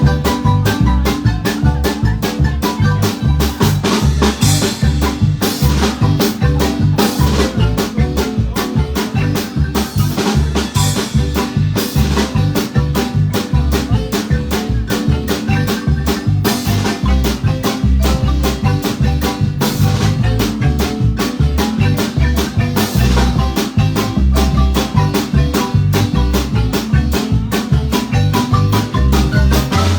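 Marimba band music: fast rolled and struck marimba notes over a steady bass line and drum kit beat.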